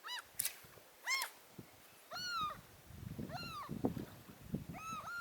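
An animal calling five times, each call a short cry that rises and falls in pitch, about one a second, over a low rumble from about two seconds in.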